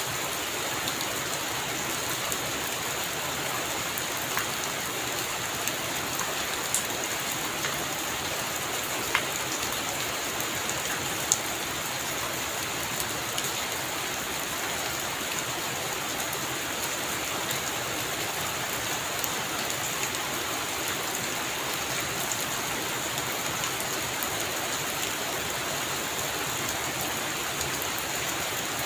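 Heavy rain falling steadily, with a scattering of sharper individual drop hits now and then; no thunder.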